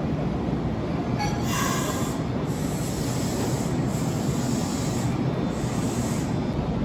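Kintetsu commuter train rolling slowly through an underground station platform: a steady rumble of wheels and running gear, broken by several short high-pitched squeals from about a second in.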